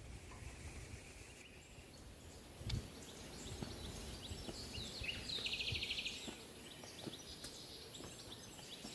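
Outdoor nature ambience: small birds chirping now and then over a steady high hiss, with a buzzy trill about five to six seconds in and a soft thump near three seconds.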